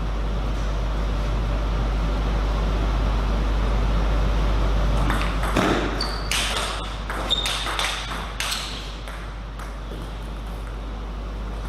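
Table tennis rally: ball and bats clicking in a quick, irregular run of about a dozen sharp hits over roughly four seconds, starting about five seconds in, over a steady low hum.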